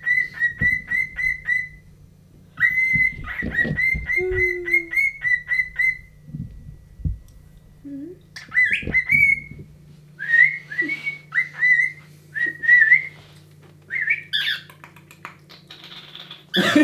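Cockatiel whistling in quick runs of short, high notes repeated at nearly the same pitch, with a few rising notes and pauses between the runs.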